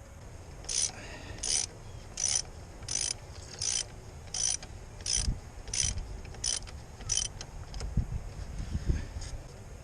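A mechanism squeaking in a steady rhythm: about ten high-pitched squeaks, roughly one and a half a second, which stop after about seven seconds. A few low thumps come in the second half.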